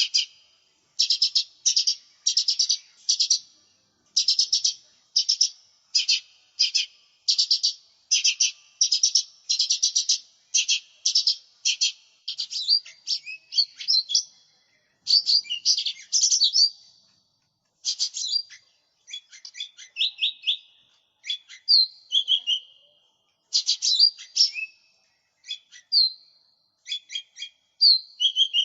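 Cucak ijo mini, a small leafbird, singing continuously. At first it repeats a run of short, high chattering phrases about twice a second. About halfway through it breaks into a more varied song of whistled, sliding notes with brief pauses.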